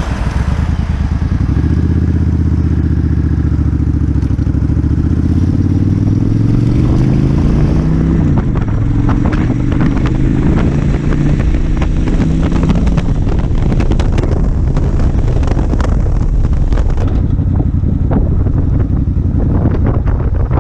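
Suzuki Intruder 1400 V-twin engine accelerating hard, its pitch climbing through one gear, dropping at a shift about eight seconds in, and climbing again. It then settles into a steady cruise with wind buffeting the microphone.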